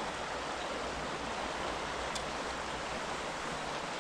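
Flowing creek water: a steady, even rush.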